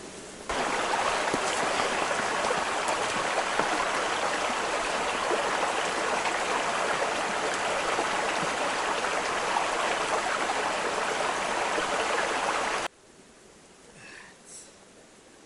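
Steady rush of running water, like a stream, cutting in abruptly and cutting off just as abruptly near the end. After it, a quiet background with a couple of faint, short high calls.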